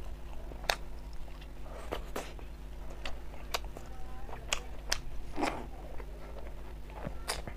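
Close-up mouth sounds of a person eating rice and fried food by hand: chewing, with irregular sharp clicks of the lips and mouth. A steady low hum sits underneath.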